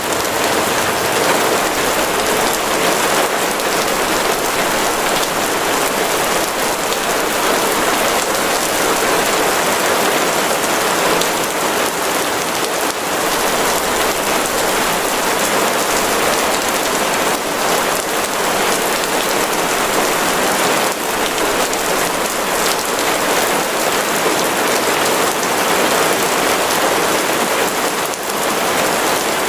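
Heavy rain falling steadily on a surface: a dense, even hiss of countless drops with no let-up.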